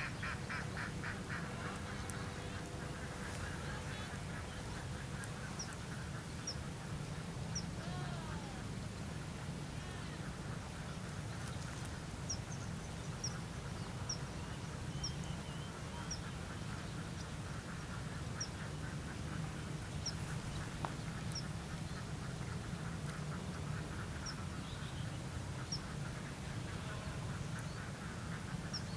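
Swiftlets chattering: a rapid pulsed twitter, with runs of short, high chirps about once a second.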